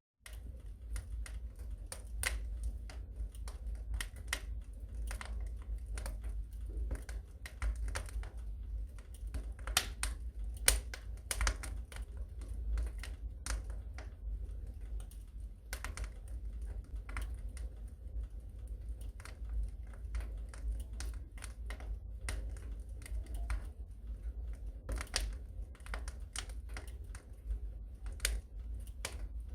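Wood fire burning in a fireplace: dense, irregular crackles and pops of the burning logs over a steady low rumble, with one louder pop about eleven seconds in.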